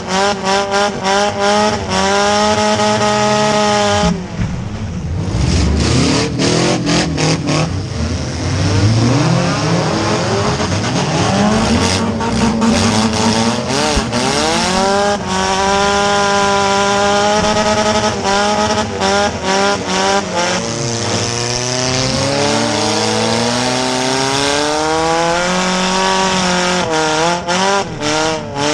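Four-cylinder demolition derby car's engine revving up and down hard as it is driven around, heard from inside its stripped cabin, with repeated sharp knocks and bangs.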